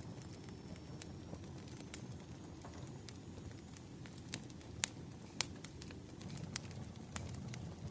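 Burning firewood crackling: irregular sharp pops and snaps, a few louder ones past the middle, over a steady low rumble.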